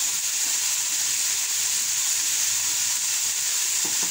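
Diced chicken frying in oil in a pan: a steady, even sizzle.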